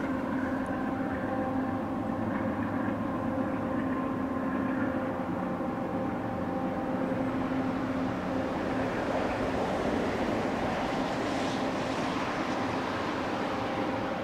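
Freight train passing, its diesel engines holding a steady drone, with rail and wheel noise that swells about nine seconds in.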